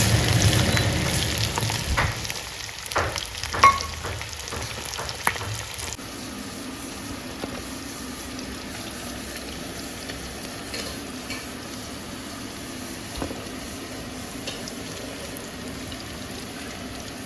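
Chicken pieces deep-frying in hot oil: a steady sizzle, louder at first and settling lower after about six seconds, with a few sharp clicks in the first few seconds.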